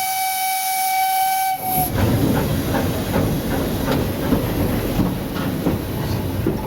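Steam whistle of the 1892 narrow-gauge steam locomotive Slieve Callan, one steady blast with hissing steam that stops about two seconds in. It is followed by the locomotive's steam hiss and running noise with irregular knocks as the train sets off.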